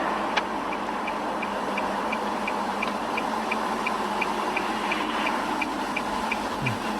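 A car's turn signal ticking about three times a second over steady road and engine noise, with one sharp click about half a second in.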